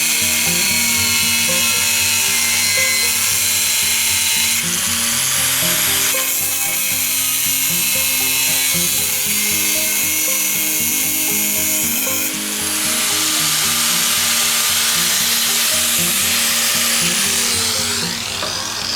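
Background music over the steady whine and hiss of a power tool at work. The tool noise changes abruptly several times.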